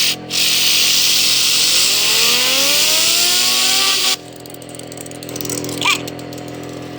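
Compressed air blasting from an air compressor's nozzle onto a fidget spinner: a loud hiss with a whine rising in pitch as the spinner speeds up. The air cuts off suddenly about four seconds in, leaving a quieter steady hum.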